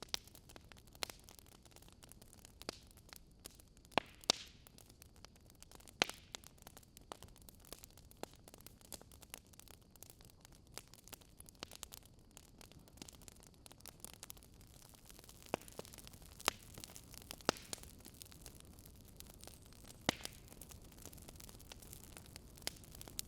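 Wood fire crackling in a fireplace: irregular sharp pops and snaps over a soft steady hiss, a few of them noticeably louder than the rest.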